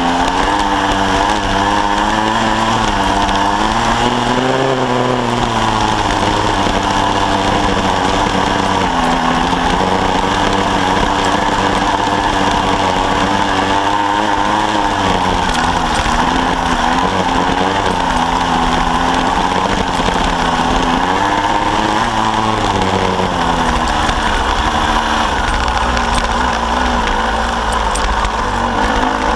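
Kawasaki KSR-2's 80cc two-stroke single-cylinder engine running under way on a dirt trail. Its revs rise and fall repeatedly as the throttle is worked over the rough ground.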